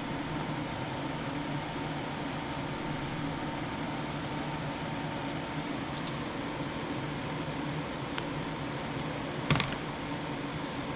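Steady hum of a small fan or motor, with scattered light clicks from about halfway through and one louder knock near the end.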